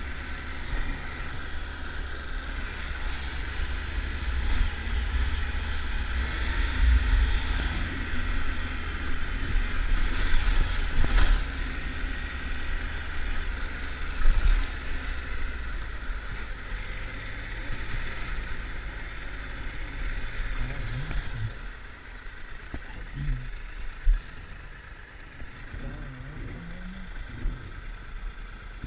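Triumph Tiger 1200 motorcycle's three-cylinder engine running while the bike is ridden, with wind rushing over the microphone. It grows louder in the first half, and about two-thirds of the way through it drops as the bike slows.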